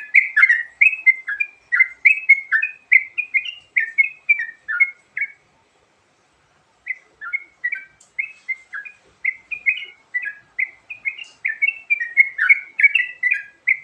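Yellow-vented bulbul (trucukan) singing: a fast run of short, varied chirping notes, several a second. The song breaks off about five seconds in and picks up again a second and a half later.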